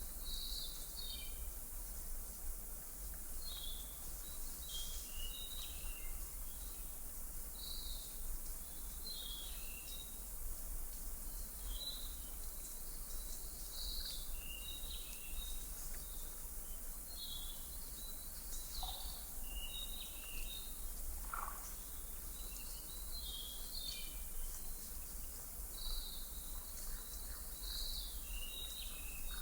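Small birds chirping in short, scattered calls, over a steady outdoor hiss and a low steady hum: a nature ambience track.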